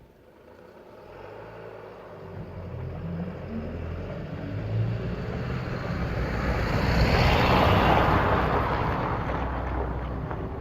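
A motor vehicle passing by: its rumble grows louder, is loudest about seven to eight seconds in, then fades.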